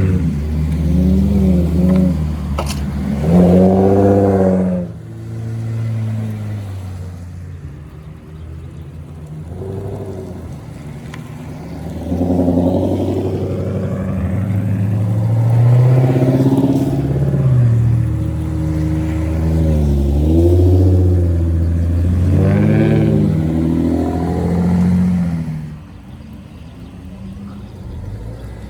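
Custom VIP-style sedans with aftermarket exhausts driving past one after another, engines revving up and easing off as they go. Loudest about four seconds in and again from about twelve to twenty-five seconds in, then it falls away sharply.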